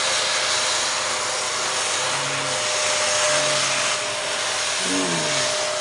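Vacuum cleaner running steadily: a constant rushing hiss with a steady motor whine. From about two seconds in, low pitched tones join it, and near the end they fall in pitch about once a second.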